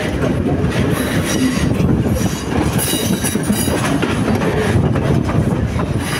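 Moving passenger train heard from an open carriage doorway: a steady rumble of the wheels on the rails with rapid clicking over the track, and a brief high wheel squeal about three seconds in as the train rounds a curve.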